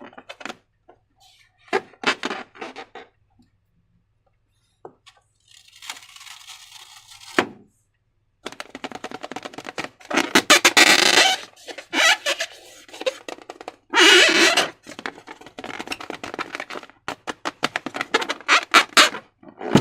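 Slime being squeezed and worked by hand: wet squelches and sticky clicks in irregular bursts, the longest squelching bursts about ten and fourteen seconds in.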